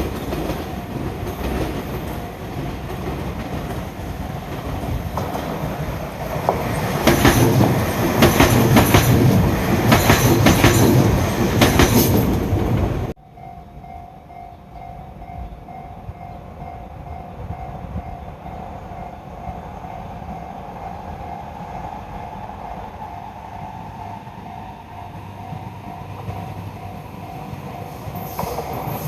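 An electric train running past a level crossing, its wheels clattering over the rail joints and growing louder about a quarter of the way through. It cuts off abruptly about halfway. After that, a level-crossing warning bell dings steadily over quieter rail noise, and another train comes up near the end.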